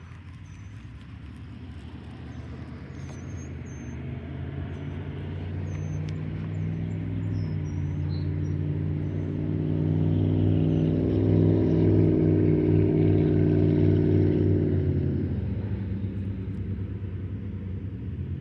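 A motor vehicle drives past, its engine hum growing steadily louder to a peak about twelve seconds in, then fading away. Faint bird chirps over the first half.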